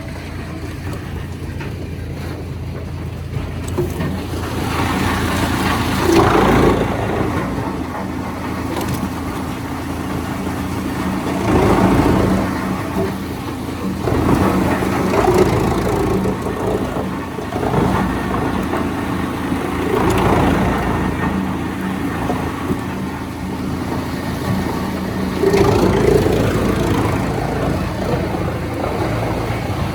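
Sawmill machinery running: a steady engine drone that swells louder every few seconds, around 6, 12, 15, 20 and 26 seconds in.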